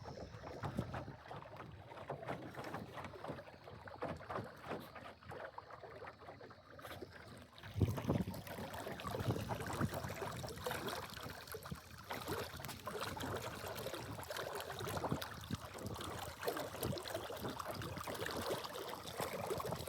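Water lapping and splashing against the hull of a small sailboat under way, with wind buffeting the microphone. It grows louder about eight seconds in.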